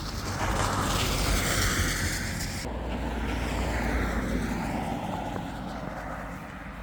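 A motor vehicle passing close by, its tyre and engine noise swelling and then fading away.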